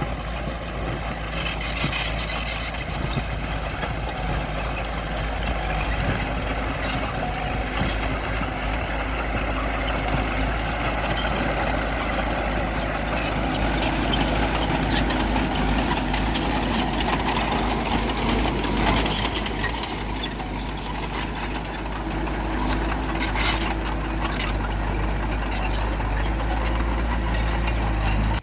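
Diesel engine of heavy earthmoving machinery running steadily under load, with brief metallic squeals and clanks, the loudest about two-thirds of the way through.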